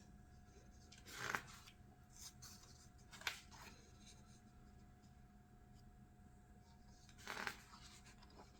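Near silence: quiet room tone with a faint steady hum, broken by a few brief rustles of something being handled, about a second in, around three seconds in, and again near the end.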